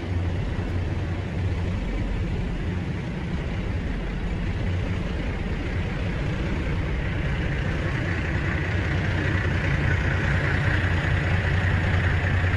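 Diesel truck engine idling, a steady low rumble, with a hiss that grows louder from about eight seconds in.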